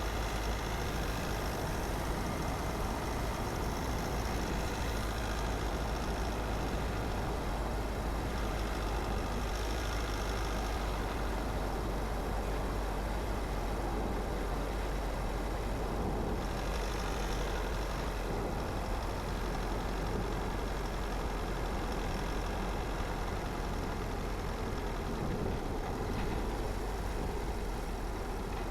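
Car driving along a road: a steady low engine and tyre rumble, with brief swells of hiss about ten and seventeen seconds in.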